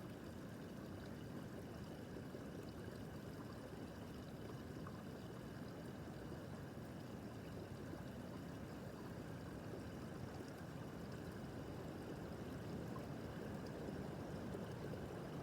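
Small brook babbling over stones, a steady soft rush of running water.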